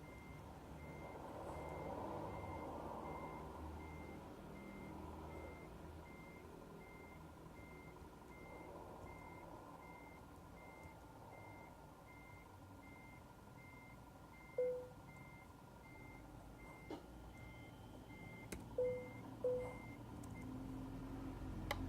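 A truck's reversing alarm beeping evenly, a little over once a second, over the low running of the Scania R450's diesel engine. The beeping stops shortly before the end, and three short, louder, lower-pitched beeps sound in the last several seconds.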